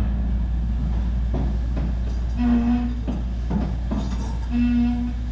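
Brake pedal being pumped during brake bleeding: several short knocks and two brief squeaky tones, over a steady low hum.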